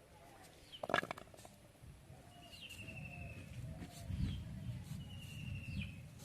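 Birds calling: a short, slightly falling trilled call repeats about every two and a half seconds. There is a sharp knock about a second in and a low rumbling noise in the second half.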